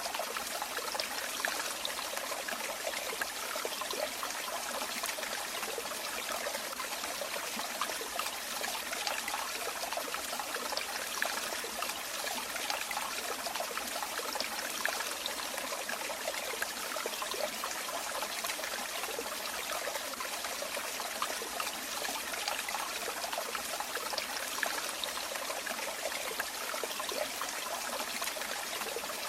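Running water trickling and splashing steadily, a continuous babble of small splashes with no low rumble.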